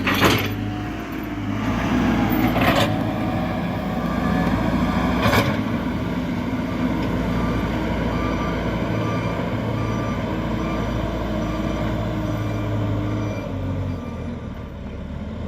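Diesel engine of a JCB backhoe loader running steadily while working, with a few sharp knocks of the bucket or arm, the loudest near the start and about two and five seconds in.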